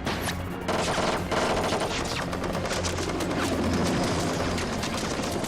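Sustained rapid automatic gunfire, many shots in quick succession, over a dramatic orchestral action score.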